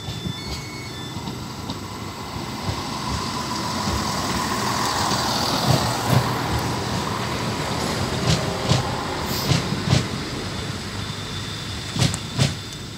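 A passenger train passing close by on the adjacent line. The running noise of the wheels builds to a peak about five seconds in and then fades, with a series of sharp knocks from the wheels in the second half.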